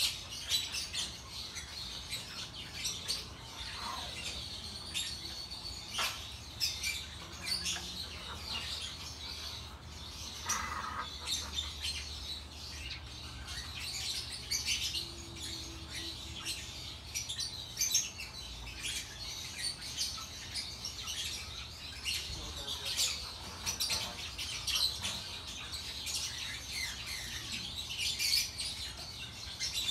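Small birds chirping and tweeting continually, many short high calls close together.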